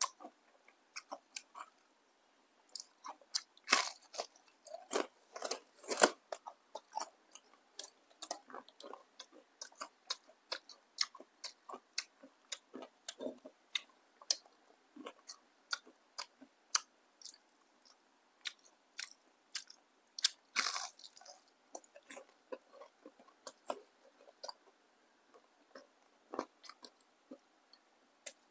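Crunchy biting and chewing of crispy fried tempeh fritters, close to the microphone: a steady run of short crackling crunches, with a few louder bites a few seconds in and again about two-thirds of the way through.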